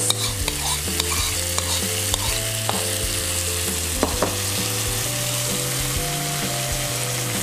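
Sauce mixture of sweet soy, oyster and tomato sauce poured into a hot wok of fried shrimp in margarine, sizzling steadily, with a few light clicks along the way.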